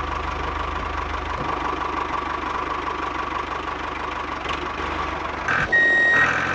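Miniature model tractor's small motor running steadily with a fast, fine ticking. About five and a half seconds in, a short electronic beep sounds: a steady high tone lasting about half a second.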